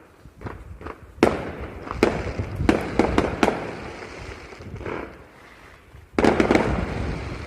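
Fireworks going off in irregular sharp bangs, each followed by a short ringing echo. Several come in quick succession between about one and three and a half seconds in, and a dense cluster of bangs comes about six seconds in.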